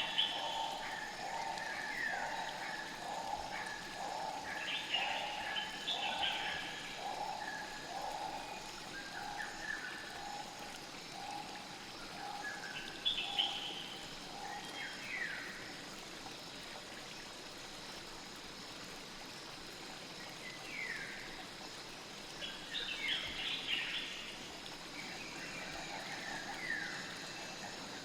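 Nature ambience of a steadily flowing stream with scattered bird chirps. Through the first half, a lower call repeats about once a second and then fades out.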